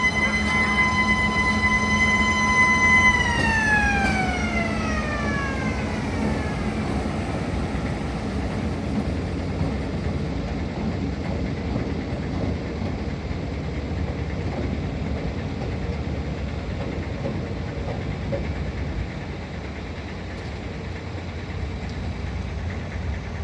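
Narrow-gauge industrial locomotive running with a steady low engine rumble. Over it a siren-like warning tone holds steady for about three seconds, then slides down in pitch and dies away.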